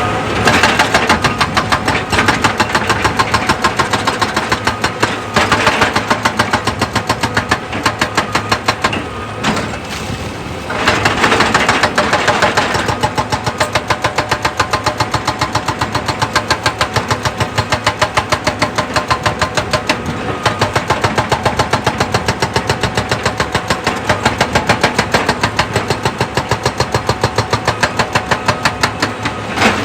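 Excavator at work: heavy diesel machinery running with a rapid, even knocking, several knocks a second, with brief breaks about nine and eleven seconds in.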